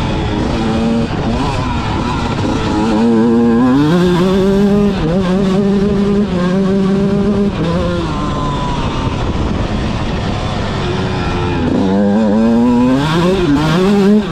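Motocross bike engine revving hard, its pitch climbing and dropping repeatedly as the throttle opens and closes and it changes gear.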